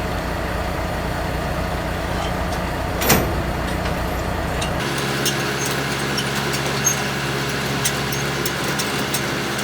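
Inside a semi-truck cab: the idling truck engine under the air conditioning blowing at full blast, a steady rush with a low rumble and a single click about three seconds in. Around five seconds in the sound changes abruptly to a steadier engine hum with a low drone and scattered light ticks.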